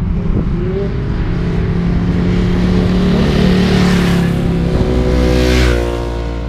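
Sport motorcycle engines running and revving. One bike comes by loud, and its engine note drops in pitch as it passes near the end.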